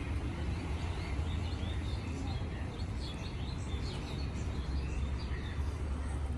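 Small birds chirping now and then, short faint high calls, over a steady low rumble.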